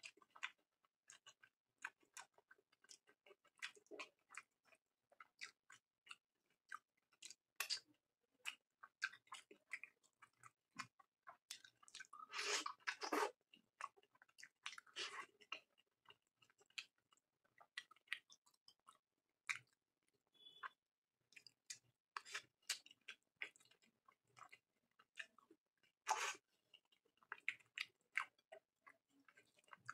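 Close-miked chewing of curry and fried rice: irregular wet smacks and clicks of the mouth, with a few louder crunchy bites.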